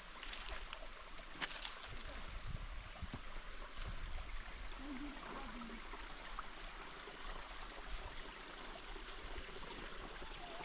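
Steady rush of running water from a small creek and its falls, with a few brief clicks in the first two seconds.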